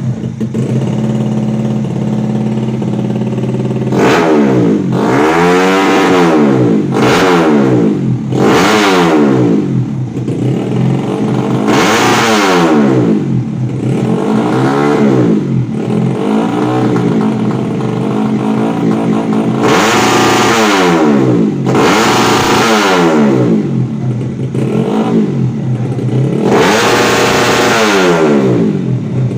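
Freshly tuned-up 125cc motorcycle engine idling steadily, then from about four seconds in revved over and over in quick blips that climb and fall back.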